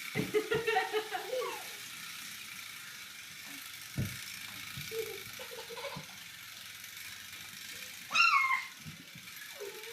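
Wind-up toy tractor's spring motor whirring steadily as it runs on the floor, with a sharp knock about four seconds in. A child giggles at the start and lets out a loud high squeal about eight seconds in.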